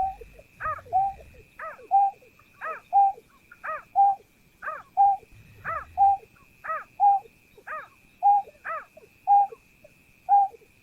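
Call of the bird known in Vietnamese as chim nhát hao, a snipe-type bird, repeated about once a second. Each call is a falling, arched note followed by a short steady lower note. A faint steady high tone runs underneath.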